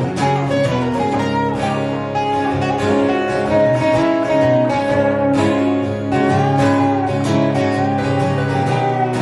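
Acoustic guitar music: strummed and picked chords with held notes, an instrumental passage without singing.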